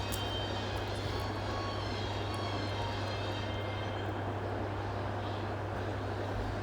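Steady low mechanical hum under an even hiss, with no change in level.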